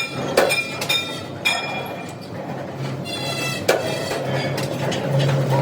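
Irregular metallic clanks on steel: a few sharp strikes spaced a second or two apart, several of them leaving a ringing tone, over a steady low machine hum.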